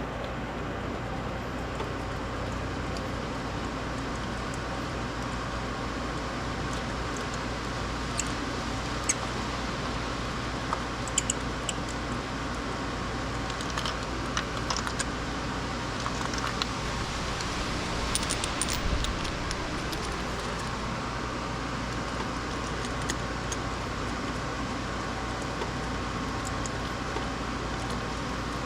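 Scattered light clicks and clinks of hand tools and small parts being handled, mostly through the middle of the stretch, over a steady background hum.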